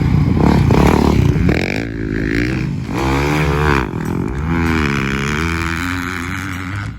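Motocross bike engine revving hard, its pitch dropping and climbing again a couple of times as the throttle is rolled off and back on.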